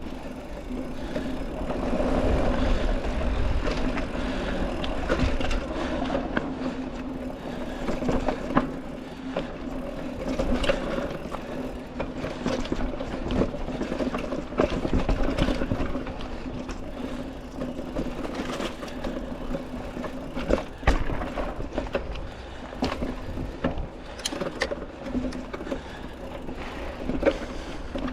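Mountain bike on tubeless tyres ridden along a dirt trail: tyres rolling, with a steady buzz and frequent knocks and rattles from the bike over bumps.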